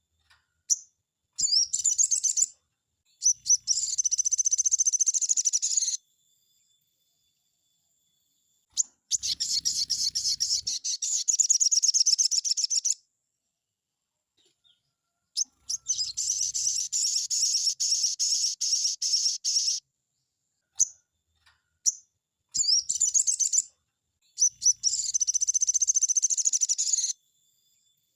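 Crimson sunbird (sogon) singing: phrases of rapid, high-pitched twittering trills, each a few seconds long, separated by short pauses and a few single chips.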